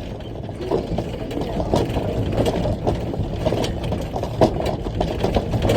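Large off-road rock haul truck driving: a steady low engine drone with frequent knocks and rattles, the loudest about four and a half seconds in.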